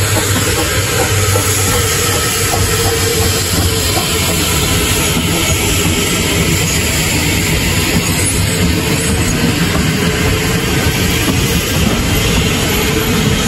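Narrow-gauge steam train's carriages rolling past close by, with a steady clatter of wheels on the rails.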